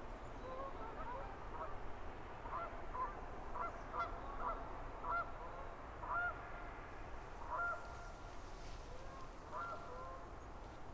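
Birds calling: many short, arched calls overlapping one another, thickest around the middle, over a low steady rumble.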